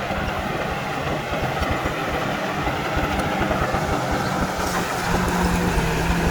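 Heavy diesel earthmoving machinery running steadily, with the engine note getting a little louder and higher about five seconds in.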